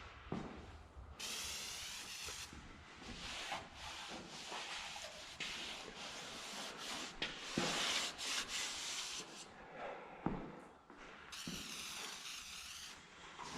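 Liquid degreaser hissing out of a sprayer in bursts of about a second, twice plainly, with scrubbing and rubbing on the truck's metal in between and a few sharp knocks.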